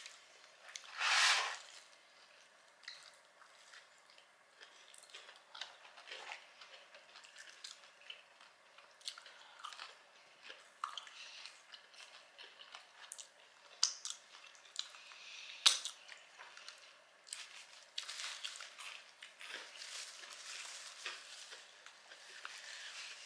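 Close-miked biting and chewing of a crispy breaded stuffed jalapeño: a loud crunch about a second in, then quieter chewing with small crunches and clicks.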